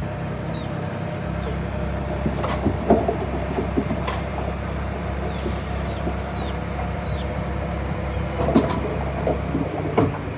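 Komatsu D31P bulldozer's diesel engine running steadily under load, with sharp knocks and clanks from pushed rock and stone at irregular moments.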